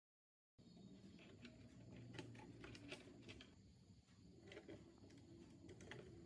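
Faint scattered light clicks and taps, some in quick little clusters, over a low room hum, after a brief moment of complete silence at the start.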